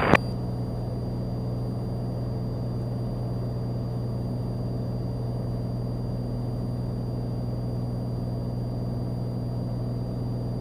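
Cessna 182's piston engine and propeller droning steadily in climb, heard inside the cockpit as a constant low hum.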